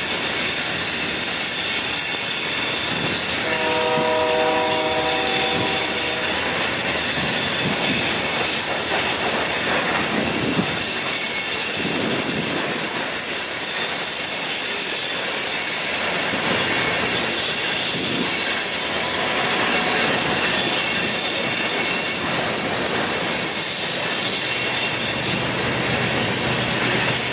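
Union Pacific freight train of covered hopper cars rolling past: steady wheel-on-rail noise with high, thin wheel squeal. A horn sounds once for about two seconds, about four seconds in. Near the end the low, steady engine hum of a passing diesel locomotive joins.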